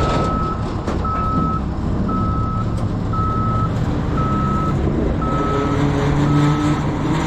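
Heavy machine's backup alarm beeping about once a second, seven beeps, over its engine running; the engine note rises in the second half as it works.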